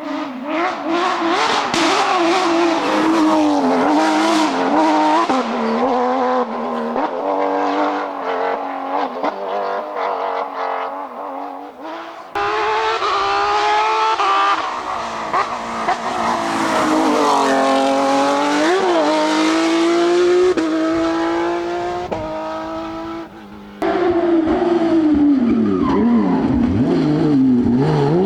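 Porsche GT3 rally cars' flat-six engines revving hard, the pitch climbing and dropping again and again through gear changes, with a car passing close near the end. The sound changes abruptly twice, about 12 and 24 seconds in, as one car gives way to another.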